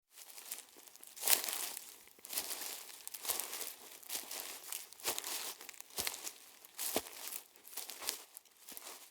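Crunching and rustling with a knock about every second, like footsteps on a rough path with crackling between the steps.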